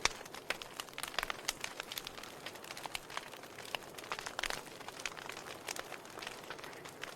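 Wood logs burning in a fireplace, crackling with many small irregular pops and snaps over a soft hiss.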